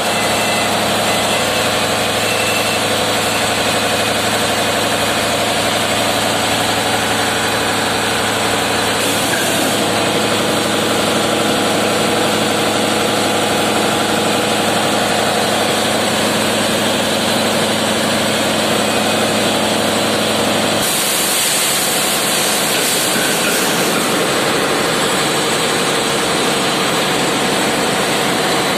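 A passenger river launch's engines run steadily and loudly in the engine room, a dense drone with several held tones. About two-thirds of the way through, the low hum drops away and a hiss comes up.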